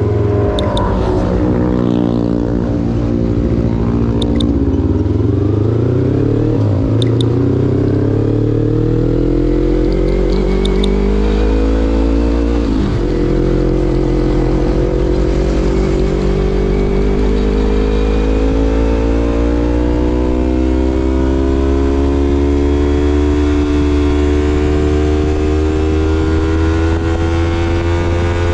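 2016 Yamaha MT-25's parallel-twin engine through a Shadux Viper Pro Race aftermarket exhaust while riding. The revs fall away at first, climb again, dip sharply at a gearchange about halfway, then rise slowly and steadily under light acceleration. A few short clicks come in the first ten seconds.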